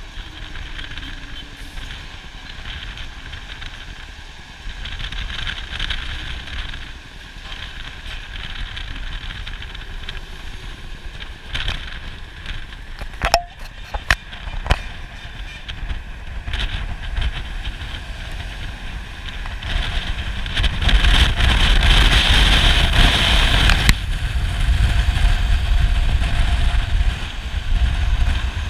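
Road vehicle noise with wind buffeting the microphone: a steady low rumble and hiss that grows louder from about twenty seconds in. There are a few sharp clicks near the middle.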